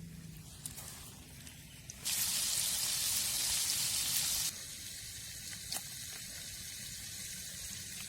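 Chicken going into hot oil in a pan: a sudden loud sizzle about two seconds in, which drops back after a couple of seconds to a steady, quieter frying sizzle.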